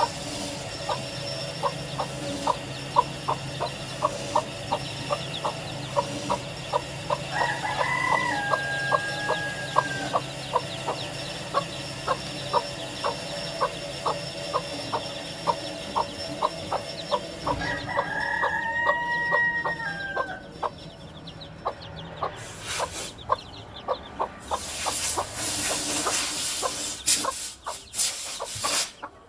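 Korean native chickens: a hen clucking steadily in short, evenly repeated calls, about two to three a second, while a rooster crows twice, the crows held and dropping at the end. Near the end, bursts of rustling noise cover the clucking.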